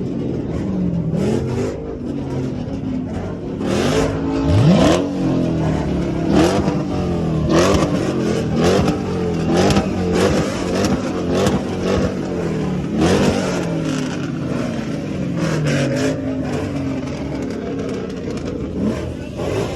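Car engines revving and accelerating hard, the pitch climbing and dropping again and again as they shift, with several sharp cracks along the way.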